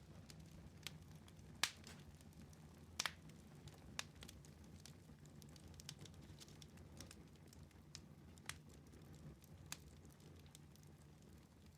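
Wood fire in a fireplace crackling faintly, with irregular sharp pops, the loudest about two and three seconds in, over a low steady rumble.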